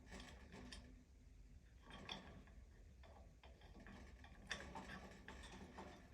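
Budgerigar pecking at a toy: faint, irregular clicks and taps of its beak, coming in quick clusters.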